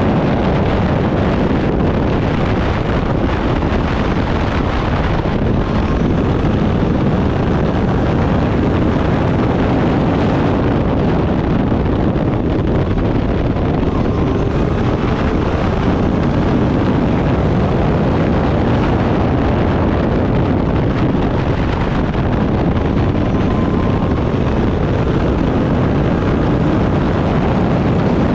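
Racing car engine running hard under steady, heavy wind noise on the microphone, with no break in the sound.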